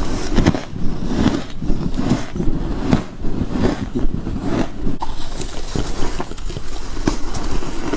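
Frost being bitten and chewed close to the microphone: a dense, irregular run of crisp crunches and crackles.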